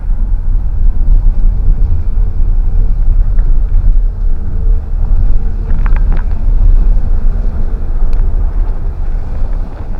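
A car driving: a steady, loud low rumble of engine and road, with a few light clicks or rattles about six seconds in.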